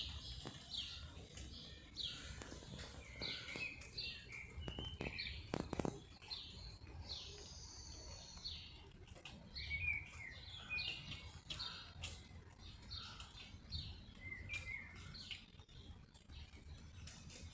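Small birds chirping in short repeated calls, with one longer drawn-out call about seven seconds in. Scattered sharp taps and a low rumble sit underneath.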